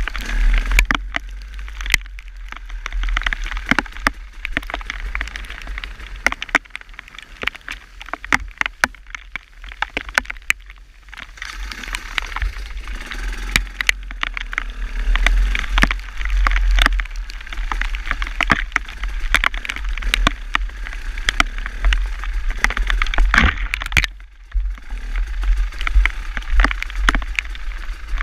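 Wind rumbling on the microphone during a ride, with a steady hiss of motion and many sharp clicks and crackles scattered throughout.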